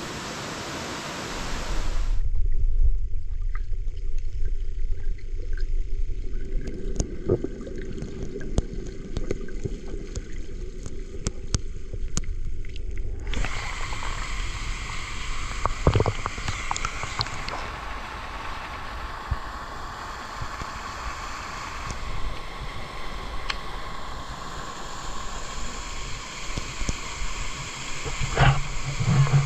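Steady rush of water from a waterfall and stream. For about ten seconds after the start a low rumble takes over, with the water's hiss largely gone, before the full water noise returns.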